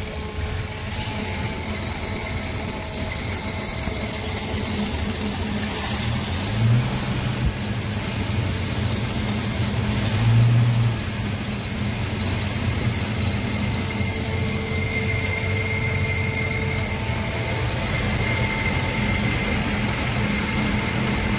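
Ford XY Falcon's straight-six engine idling steadily, with two brief swells in the engine note. This is the engine newly running again after sitting for 30 years, on a rebuilt carburettor and fresh oil.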